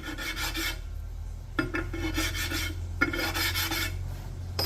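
Connecting-rod caps from a 2.0-litre Mitsubishi engine rubbed by hand on an abrasive to take burrs off their sides: three rasping scrape strokes, then a sharp clack near the end.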